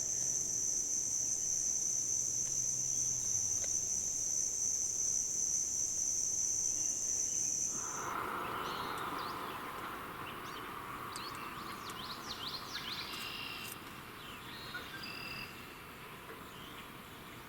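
A steady, high-pitched insect drone that cuts off abruptly about eight seconds in. It gives way to a softer background hum with scattered short bird chirps and whistles.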